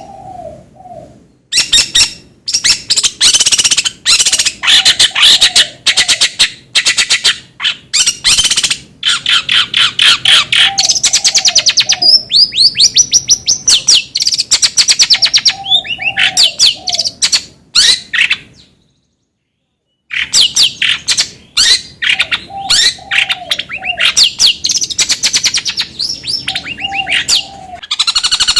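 Long-tailed shrike (cendet) song: a loud, dense stream of rapid high-pitched chattering and trills, with a lower short warbled phrase recurring every few seconds. It stops abruptly for about a second and a half about two-thirds of the way through, then starts again.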